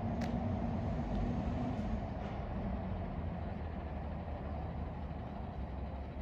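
Peterbilt refuse truck's diesel engine running with a steady low rumble. There is a sharp click just after the start, and a faint hum fades out about two seconds in. The sound grows slowly quieter.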